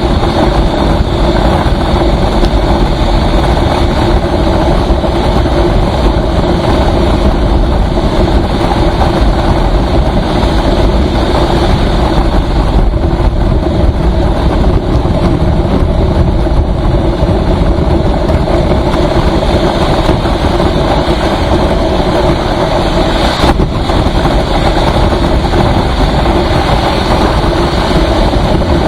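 Vehicle travelling at a steady speed on a highway, engine and road noise running unchanged, with one brief knock about two-thirds of the way through.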